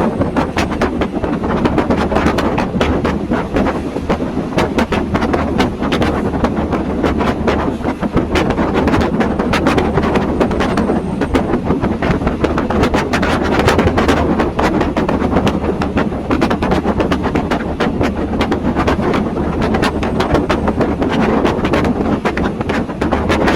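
Passenger train running along the track, heard from on board: a steady rumble with constant rattling and clattering of the carriage and wheels, mixed with wind noise.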